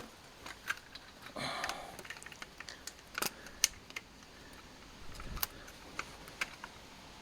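Scattered light clicks and taps, a dozen or so short sharp ticks at uneven intervals, with a brief rustle about a second and a half in: handling noise from work on the tractor's lift arm or from moving the camera.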